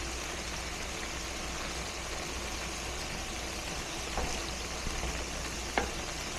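Food sizzling in a hot frying pan, a steady crackling hiss over a low hum, with two light clicks near the end.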